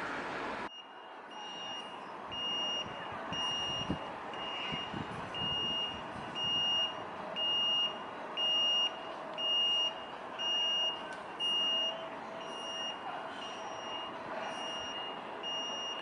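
High-pitched electronic warning beeper sounding about once a second, each beep a little over half a second long, growing louder and then fading slightly.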